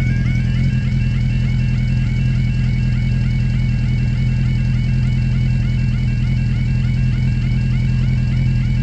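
Level crossing yodel alarm warbling continuously, about three cycles a second, over a steady low hum. The alarm keeps sounding because the crossing has failed with its barrier not raising.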